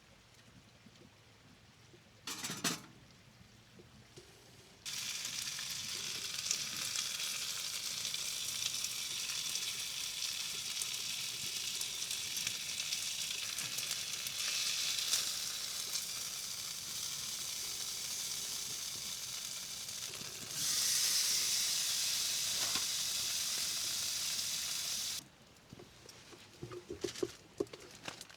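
Marinated food sizzling in a hot cast iron skillet on a wood stove, starting suddenly about five seconds in, growing louder about twenty seconds in and cutting off sharply near the end. A short knock comes shortly before the sizzling starts.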